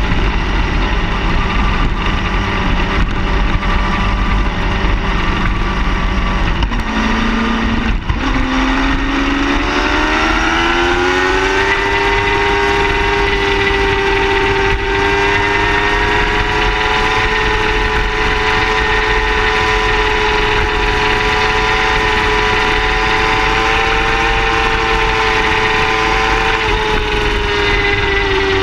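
Car engine running, its revs climbing over a few seconds about a third of the way in, then held steady and easing off slightly near the end.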